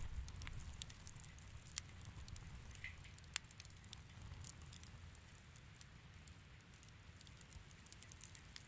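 Wood fire in a fireplace crackling softly, with a scatter of small clicks and sharp pops, the loudest about two and three and a half seconds in, over a low steady rumble.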